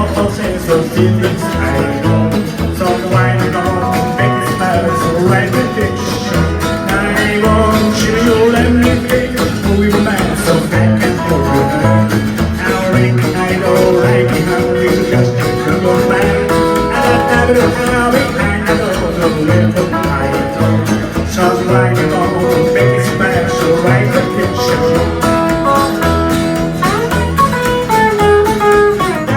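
Live band music: guitars over bass and drums keeping a steady beat.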